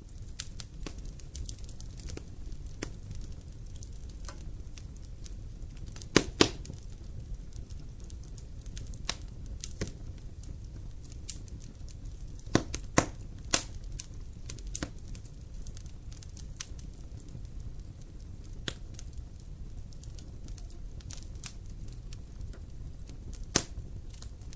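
Wood fire burning in a fireplace: a steady low rumble of flames with scattered sharp crackles and pops. The loudest pops come in pairs about a quarter of the way in and around the middle, with another near the end.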